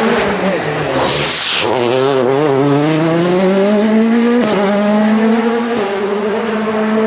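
A WRC Plus rally car's turbocharged 1.6-litre four-cylinder engine accelerating hard. Its pitch rises through a gear, with an upshift about four seconds in, and then holds steady. A brief hiss comes about a second in.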